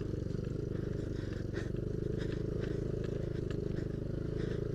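Yamaha Aerox scooter engine running at a steady speed while riding, with scattered light clicks over it.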